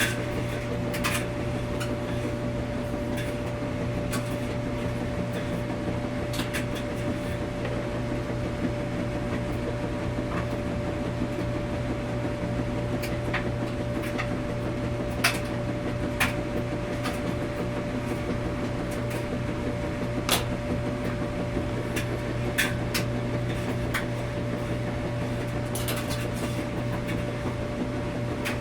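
Washing machine running with a steady low hum and a few steady tones, with light clicks and knocks at irregular intervals.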